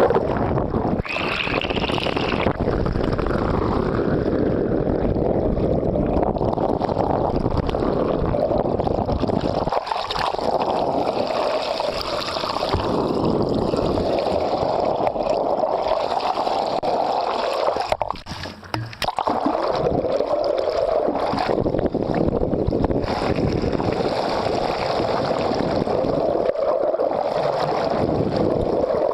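Water gurgling and splashing along a sailboat's hull under way, with wind noise on the microphone. The sound drops away for about a second roughly two-thirds of the way through.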